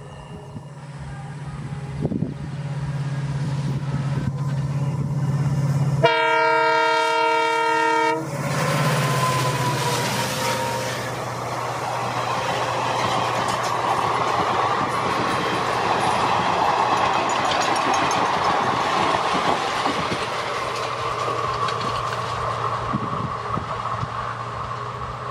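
WDP4D diesel locomotive approaching with its engine running steadily, then sounding a horn blast of about two seconds some six seconds in, which cuts off sharply. Its coaches then rush past with wheels clattering over the rail joints.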